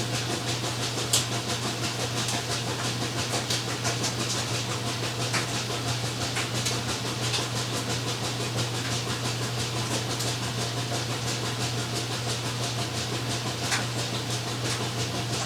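Steady low hum under an even hiss, with a few sharp clicks scattered through.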